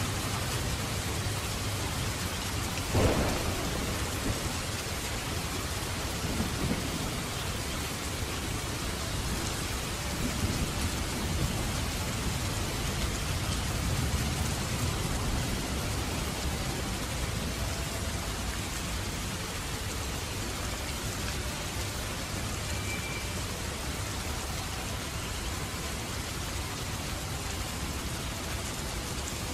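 Steady rain, with a sharp thunderclap about three seconds in that rumbles on for a few seconds before fading back under the rain.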